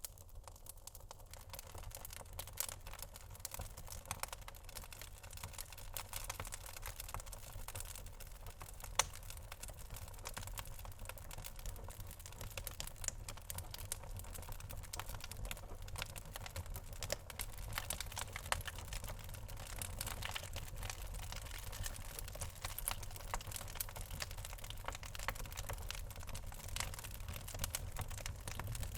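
Birchwood burning in a fireplace, crackling with many rapid irregular clicks and a few louder pops over a low steady rumble. Two of the pops stand out, about a third of the way in and again past the middle.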